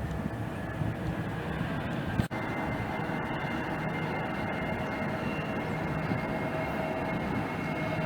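Jet airliner engines running: a steady rush with a high whine over it, broken briefly a little over two seconds in.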